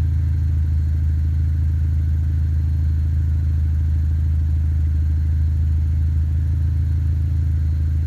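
Exhaust of a Pontiac G5 GXP with a turbocharged LNF four-cylinder engine, idling steadily after a warm start: a low, even drone with no revving.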